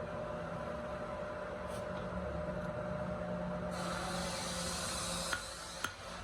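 Workshop machinery running steadily with a faint hum, a hissing rush from about four to five seconds in, and a few sharp clicks near the end.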